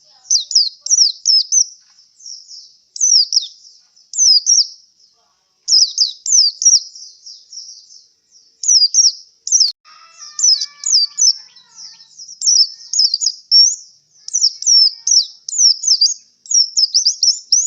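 Male white-eye (pleci) singing in quick phrases of short, high chirping notes that sweep down in pitch, with brief pauses between phrases. The keeper takes it for the song of a bird tired out after a song contest.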